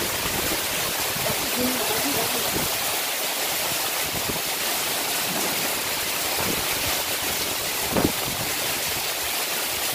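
Heavy tropical downpour: a steady, dense hiss of rain falling on the ground, plants and roof, with water pouring off the roof edge. A short thud stands out about eight seconds in.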